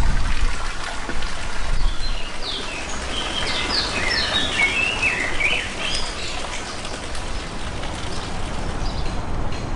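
Birdsong: about two seconds in, a bird sings a quick run of short chirping notes lasting about four seconds, and a few fainter chirps follow near the end, over a steady hiss.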